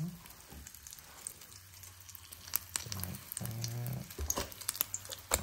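A grilled sandwich sizzling faintly in a frying pan, with scattered sharp clicks, the loudest near the end. A short low voice sound comes about three seconds in.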